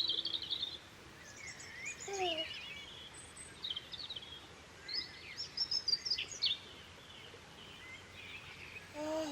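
Small birds chirping and twittering in short scattered calls over a faint steady hiss, with a short rising tone near the end.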